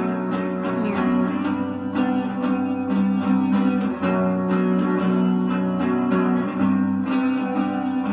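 Instrumental music: a plucked guitar playing repeated notes over a steady low bass.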